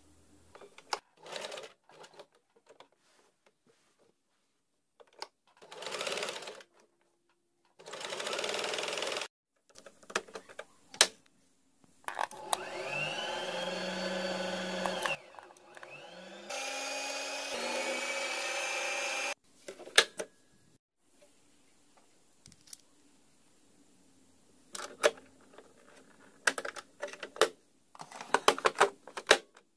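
Electric sewing machine stitching in several short runs, its motor rising in pitch as it speeds up and falling as it slows to a stop. Clicks and rattles of fabric handling come between the runs.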